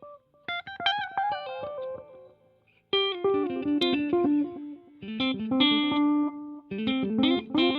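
Electric guitar played through a Donner digital delay and reverb pedal, short plucked phrases followed by fading echo repeats, with the delay level turned all the way up. Near the middle the notes stop briefly, and a new, lower phrase starts about three seconds in.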